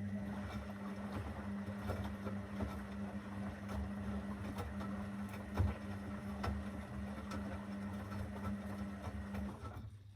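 Zanussi FL984CN front-loading washing machine turning its drum in the wash phase: the motor runs with a steady hum and a faint high whine over soft knocks and sloshing from the tumbling load. It stops near the end.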